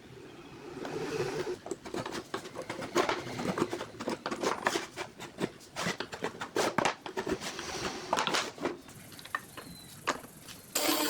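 Irregular series of sharp clicks and light knocks, with music coming in right at the end.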